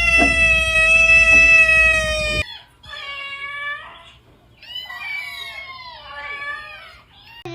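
Domestic cat meowing: one long, steady drawn-out call that cuts off abruptly about two seconds in, then after a short pause a run of wavering meows rising and falling in pitch.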